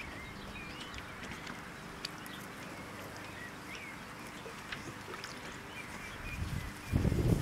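Birds calling in short, scattered chirps over a steady faint hiss, with a burst of louder low rumbling noise near the end.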